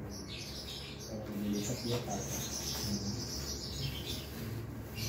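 Small birds chirping, with a long, high, steady trill in the middle.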